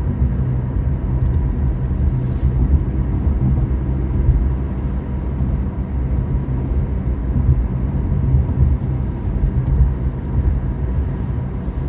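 Steady low road rumble of a car being driven, heard from inside the cabin, with a faint thin steady tone above it.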